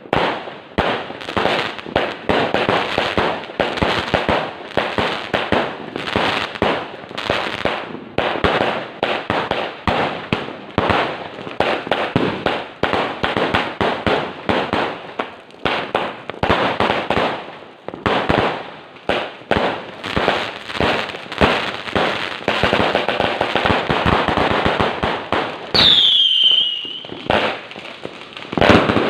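A 188-shot firework cake firing a rapid, continuous string of shots and bursting reports. Near the end a single whistle falls in pitch.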